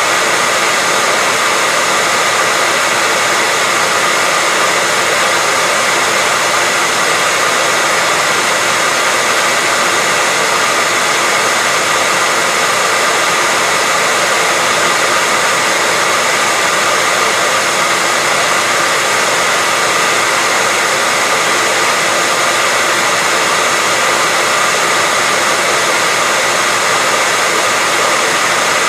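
Hair dryer running steadily with an even whooshing airflow and a faint motor whine, no change in speed or pitch.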